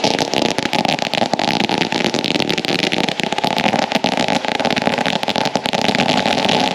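Ground firework fountain burning: a loud, steady rushing hiss thick with rapid crackling.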